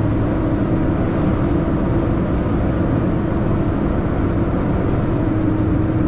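2000 Freightliner FLD 112 semi truck running, a steady engine drone and hum heard from inside the cab.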